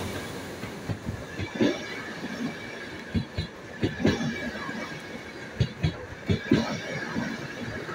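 Passenger coaches of an Intercity train passing through a station at speed: a steady rush of wheels on rail, broken by irregular knocks as the wheels clatter over rail joints. The louder noise of the locomotive fades in the first second.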